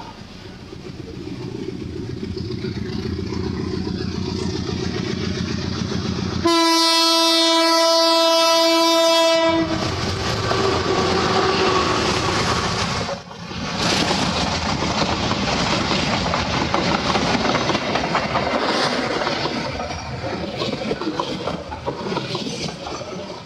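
Train approaching with a rising engine rumble, then one steady horn blast about three seconds long, followed by the train passing with wheels clattering over the rails.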